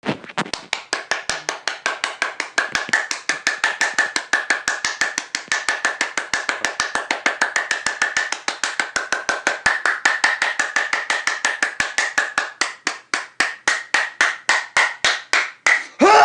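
A strange clapping noise: a fast, regular train of sharp, hollow-sounding claps, about seven a second, slowing to about four or five a second near the end. A loud pitched squeal that bends in pitch cuts in right at the very end.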